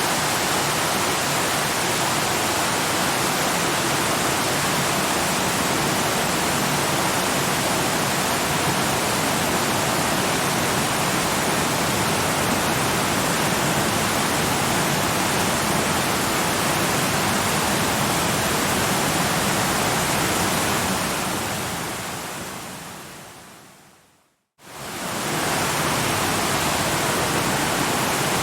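Waterfall water rushing in a steady, dense roar. About three-quarters of the way through it fades away to a moment of silence, then quickly swells back in, the join where the recording loops.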